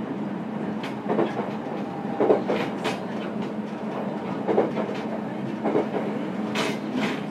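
On-board running sound of a JR Kyushu YC1-series hybrid diesel-electric railcar, recorded above the traction motor: a steady drone and rumble while running, with the wheels clacking over rail joints about once a second.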